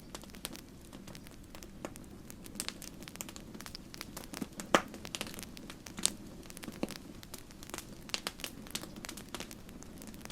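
Wood campfire crackling, with a quick, irregular run of small pops and snaps over a steady low rush of flame. One louder pop comes near the middle, and a second follows about a second later.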